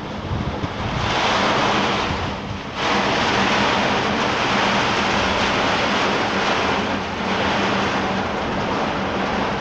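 Heavy rain squall: a loud, steady rush of downpour and gusting wind, with wind buffeting the microphone, dropping briefly about two and a half seconds in before surging back.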